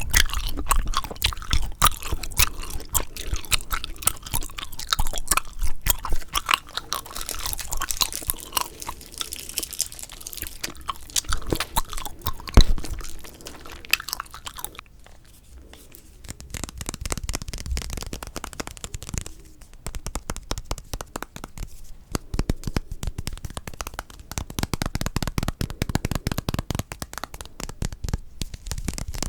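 Bubble gum chewed close to a microphone: dense, rapid crunching and clicking mouth sounds, with a brief lull about halfway.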